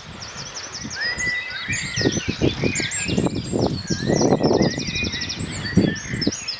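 Several songbirds singing, with many short chirps and a quick trill about four seconds in. Irregular low rustles and knocks close to the microphone run under the song and are loudest in the middle.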